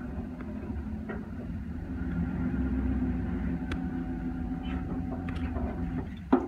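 A vehicle engine running at low speed with a steady low hum, swelling a little in the middle. There is a sharp knock near the end.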